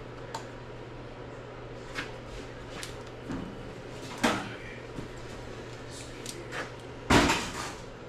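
Scattered knocks and clatters of tools and engine parts being handled during an LS engine teardown, the loudest about four seconds in and about seven seconds in, over a steady low hum.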